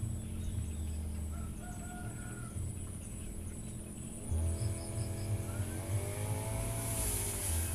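Firman FGB 528 brush cutter's two-stroke engine running slow, then revved up about four seconds in, easing off briefly and revving again near the end.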